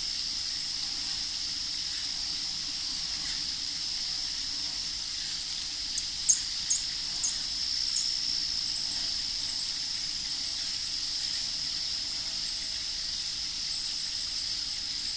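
A steady high-pitched hiss runs underneath, with a handful of short, sharp high chirps from small birds in the middle and a few fainter ones later.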